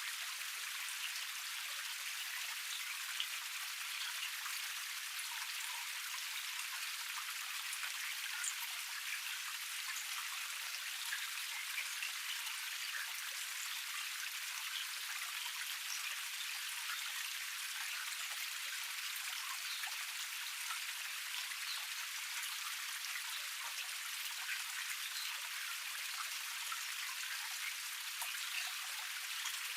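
Small cascade of a forest stream: water splashing and trickling over rocks, a steady hiss sprinkled with many small droplet splashes and no low rumble.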